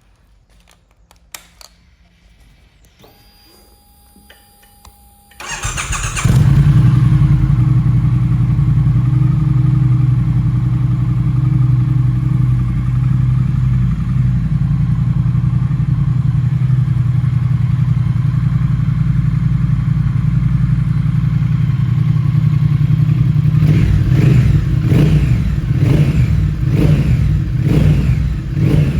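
Triumph Thruxton 1200 R's 1200 cc parallel-twin engine through a Vance & Hines exhaust. A click and a faint whine come first, then about five seconds in the engine starts and settles into a steady idle. Near the end come several quick throttle blips.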